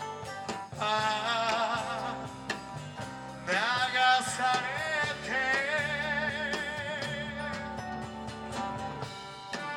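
A rock band playing live, with a lead line of long, wavering held notes over the band: one a little under a second in, and another that slides up at about the midpoint and is held for several seconds.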